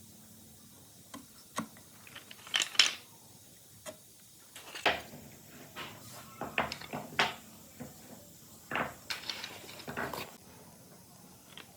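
Irregular clicks, knocks and clatters of hard objects being handled and set down, a dozen or so, the loudest about three seconds in.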